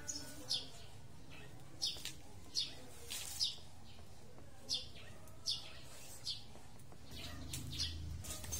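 A bird chirping: short, high, falling chirps about once a second, irregularly spaced, over a steady low hum.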